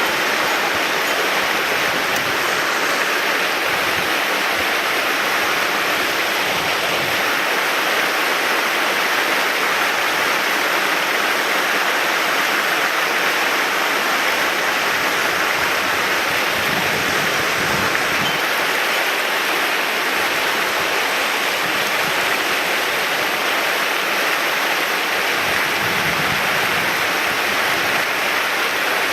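Mountain stream water rushing steadily over rocks, a close, even roar of running water.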